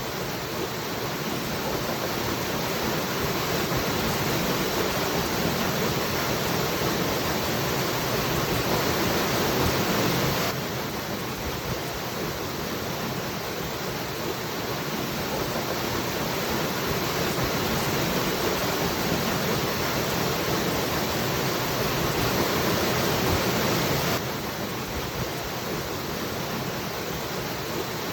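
Waterfall: a steady rush of falling water with no distinct splashes. The level drops abruptly twice, about ten seconds in and again near the end.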